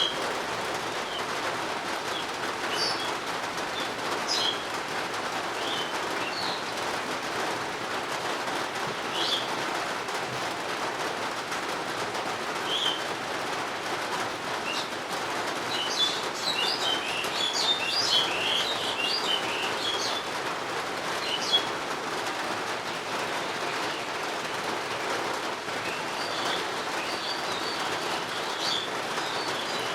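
Steady rain falling, with birds chirping over it: scattered short calls throughout and a busy flurry of chirping around the middle.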